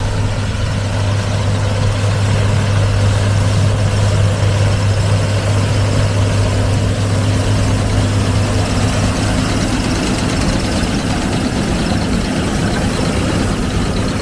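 Heavy farm machine's diesel engine running steadily, with a strong low hum that shifts slightly about nine seconds in.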